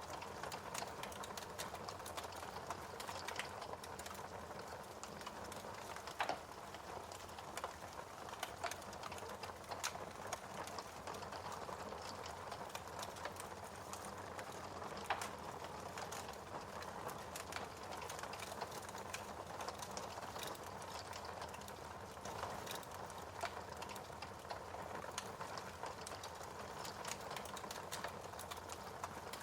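Wood fire crackling in a fireplace: a steady soft hiss with many small irregular pops and snaps, and a couple of louder pops.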